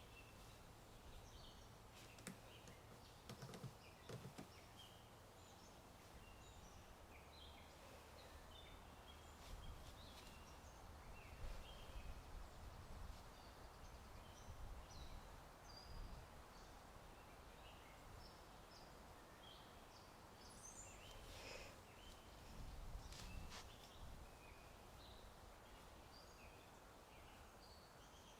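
Faint outdoor ambience of small birds chirping and tweeting on and off, over a low steady wind noise that swells a few times. There are a few isolated sharp clicks.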